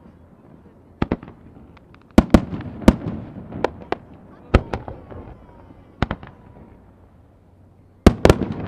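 Aerial fireworks bursting: about ten sharp bangs, some in quick pairs, each followed by a rolling echo.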